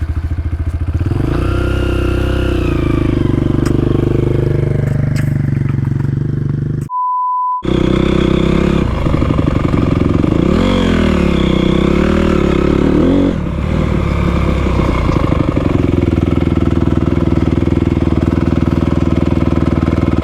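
Dirt bike engine running, revved up and back down twice over its steady idle. About seven seconds in, a short beep briefly replaces all other sound.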